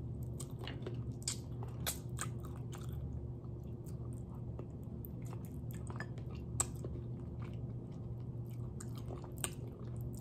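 Close-miked chewing and nibbling of adobong chicken feet: a string of short, irregular wet mouth clicks and smacks, over a steady low hum.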